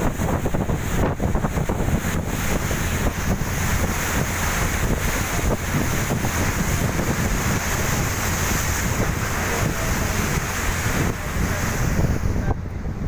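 Wind buffeting the microphone aboard a fast passenger boat under way, over a steady low rumble and rushing water. The high hiss drops away near the end.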